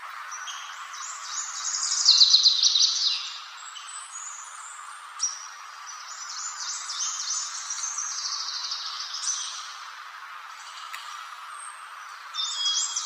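A songbird singing rapid, high twittering phrases: a loud burst about two seconds in, another long run from about six to nine seconds, and a new phrase starting near the end, over a steady background hiss.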